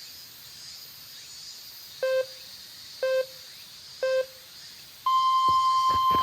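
Electronic countdown beeps: three short beeps a second apart, then one long, higher beep, like a race-start or time-signal countdown.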